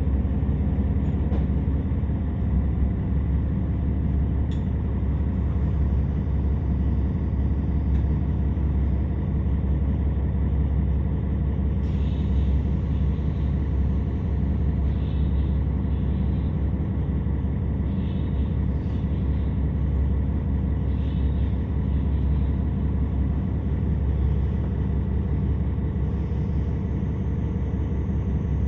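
Steady low rumble of a KiHa 47 diesel railcar heard from inside the passenger car, as the train draws into and stands at a station.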